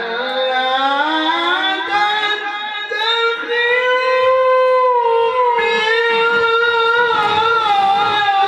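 Male Quran reciter drawing out one long melismatic vowel in tilawah style. The voice glides up over the first few seconds to a high, held note, drops slightly about halfway, and wavers in ornaments near the end.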